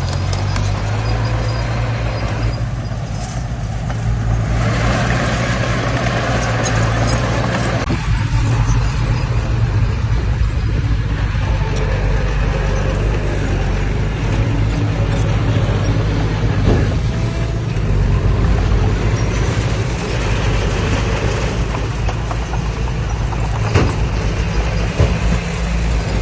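Heavy earthmoving machinery's diesel engine running steadily under work, with a few sharp metallic knocks, one at about two-thirds of the way through and another near the end.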